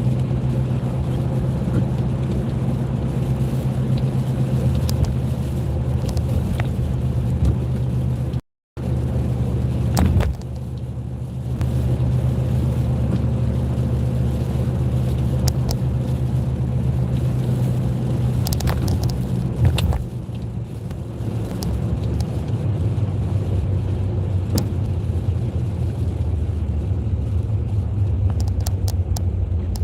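Steady low hum of a car driving, heard from inside the cabin, with faint scattered ticks. The sound cuts out completely for a moment about a third of the way through.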